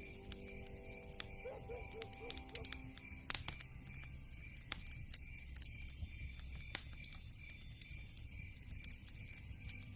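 Campfire crackling, with frequent sharp pops scattered through. A steady, evenly pulsing high chirp runs underneath, and a few held musical tones fade out in the first three seconds.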